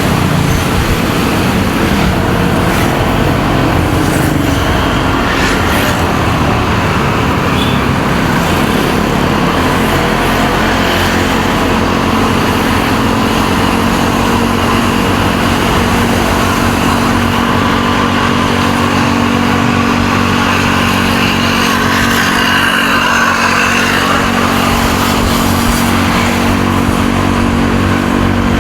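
Motorcycle engine running steadily while riding, heard over wind and road noise, with other traffic around it. The engine's note grows stronger in the second half.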